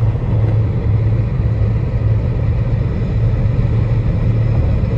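Steady low rumble with a constant deep hum underneath, unchanging throughout.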